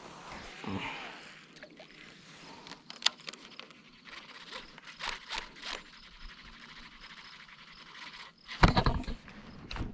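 Scattered light knocks and scrapes of handling on a kayak, with one much louder thump near the end.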